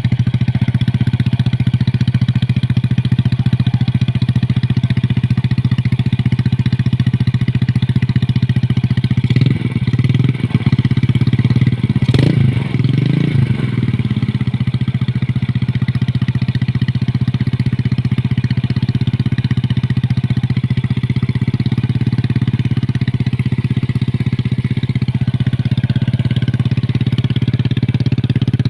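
Yamaha Jupiter Z motorcycle's single-cylinder four-stroke engine idling steadily through a CLD C3 aftermarket exhaust, with two brief throttle blips about ten and twelve seconds in.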